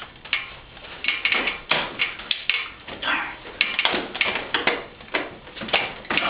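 Irregular clicks and knocks, a few a second.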